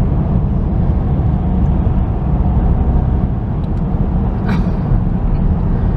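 Car road noise heard from inside the cabin: a steady low rumble of engine and tyres on the road, with a brief click about four and a half seconds in.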